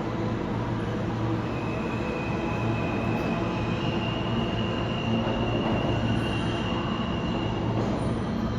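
New York City subway train running through a station with a steady rumble. A high wheel squeal starts about a second and a half in, steps slightly higher in pitch and stops near the end.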